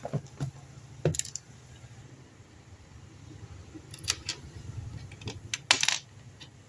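Small metal parts and tools clinking and tapping, in several short clusters with a brief rattle near the end, over a low steady hum.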